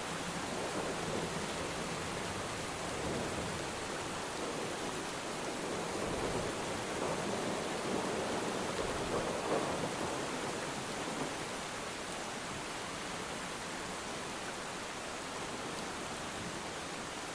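Steady rainfall, an even hiss over the low wash of the sea, swelling a little about the middle.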